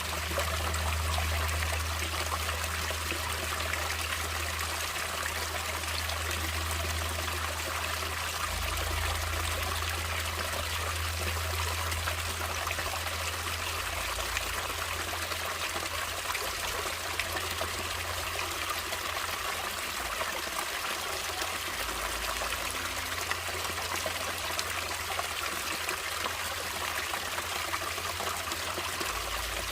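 Stream water running and trickling, a steady even splashing.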